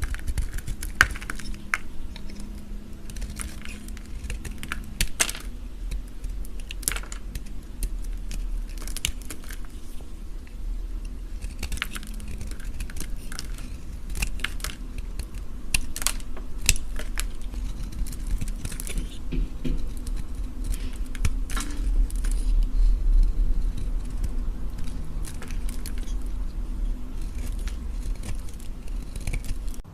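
Knife cutting and carving through a bar of soap: a run of irregular crisp clicks and crunches over a low rumble.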